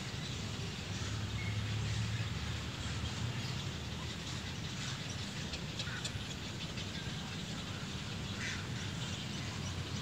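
A few faint, short bird calls scattered over a steady low background rumble.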